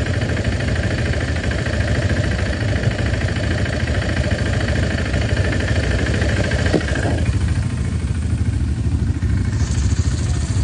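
Motorcycle engine running steadily at idle, with a deep low rumble. About seven seconds in, the higher part of the sound falls away and the low rumble carries on.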